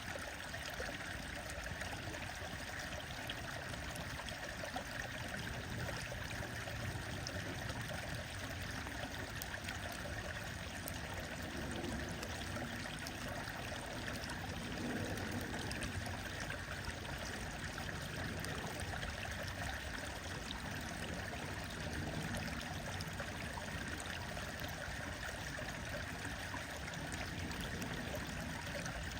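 Stream flowing steadily, with scattered small crackles and pops from a wood bonfire.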